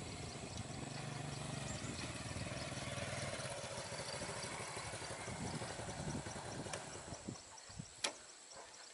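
A small engine running steadily, then fading away over several seconds, with high, regular chirping in the background and a single sharp click near the end.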